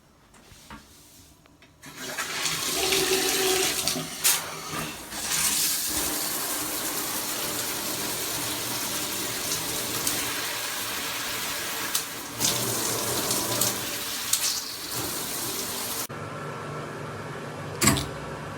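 Handheld shower head spraying water, a steady hiss that starts about two seconds in. It becomes quieter with a low hum late on, and a single sharp knock comes near the end.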